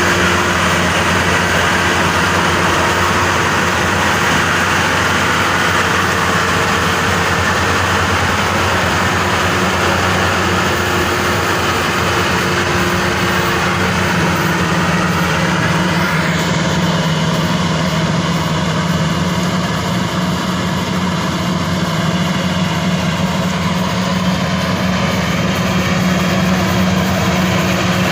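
Maxxi Bimo 102 SS rice combine harvester running steadily under load, with a constant low engine hum. About two-thirds of the way in, the sound shifts and a steady higher whine comes in.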